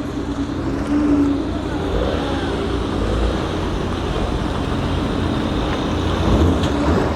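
A performance car's engine and exhaust running loudly as the car pulls away, with a low rumble throughout.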